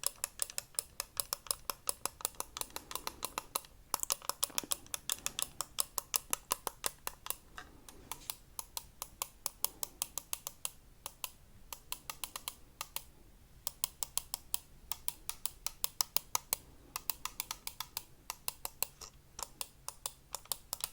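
Rapid tapping on a hard object, several sharp taps a second in long runs with brief pauses.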